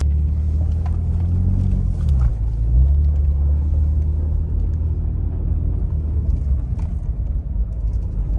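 Car engine running with a steady low rumble, its pitch dipping briefly and coming back up about two seconds in.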